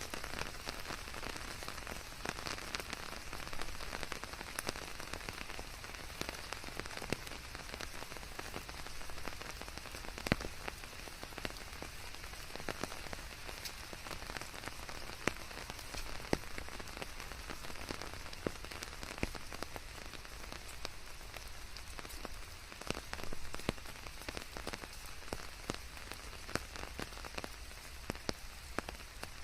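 Steady rain falling, an even hiss dotted with many separate drop ticks, blended with white noise.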